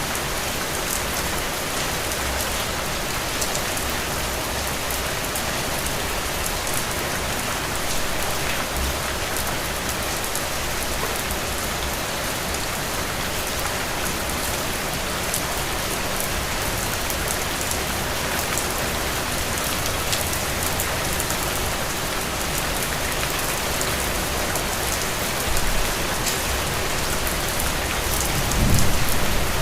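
Heavy rain falling steadily, a dense even hiss with fine scattered drop clicks. Near the end a low rumble of thunder swells in.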